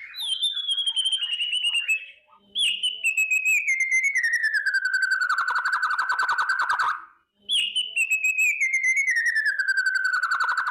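White-rumped shama (murai batu) giving its 'kretekan' rattle: rapid pulsed trills that slide down in pitch. There are three phrases, a short one at the start and two longer ones of several seconds each, split by short gaps.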